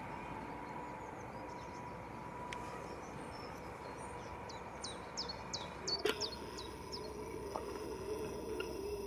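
A small bird calling a quick run of high, downward-sliding chirps about five to seven seconds in, over a steady outdoor background with a faint steady hum. A single sharp click comes just after six seconds.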